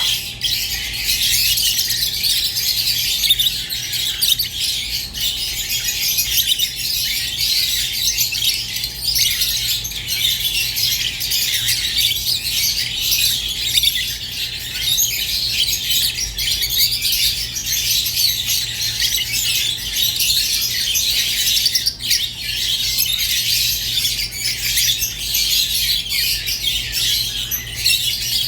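Rosy-faced and Fischer's lovebirds chattering together: a dense, unbroken stream of high-pitched chirps with occasional squawks.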